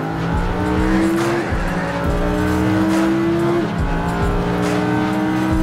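Lamborghini Huracán's naturally aspirated 5.2-litre V10 under hard acceleration, heard from inside the cabin: the engine note climbs through each gear and drops at two quick upshifts, about a second and a half and three and a half seconds in.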